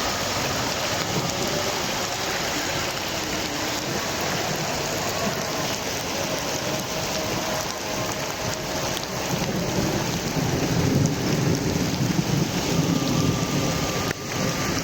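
Heavy rain falling steadily in a thunderstorm, with a low rumble of thunder building over the last few seconds.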